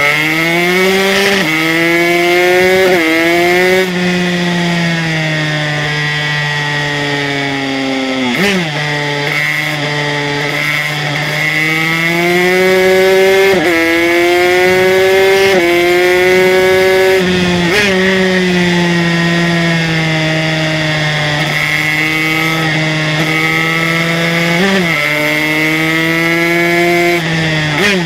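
Aprilia RS125's two-stroke single-cylinder engine, fitted with an HTM Racing 144cc big-bore kit, running hard on track. Its note climbs in pitch as the revs build and drops sharply at each of several gear changes and throttle lifts.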